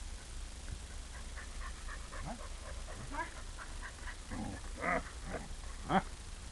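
A husky making a string of short vocal sounds, growls and whines, during play; the loudest calls come about five and six seconds in.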